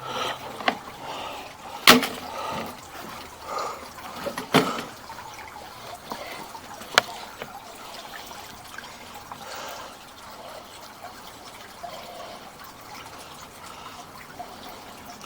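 Garden waterfall fountain trickling steadily, with a few sharp clicks and knocks over it in the first half, the loudest about two seconds in.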